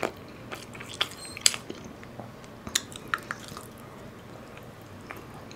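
Close-up chewing and biting of food by a mukbang eater, with scattered small crunches and mouth clicks, thickest in the first few seconds and then thinning out.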